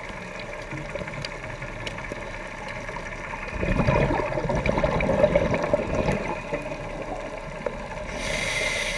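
Scuba diver breathing through a regulator underwater. An exhalation comes about midway as a rough bubbling rumble lasting some three seconds, and an inhalation hisses near the end, over a steady faint hum.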